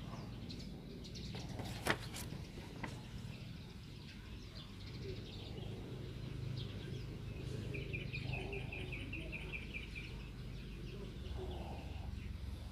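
A bird trilling, a quick even run of chirps for about two seconds past the middle, over a low steady background hum; a single sharp click about two seconds in.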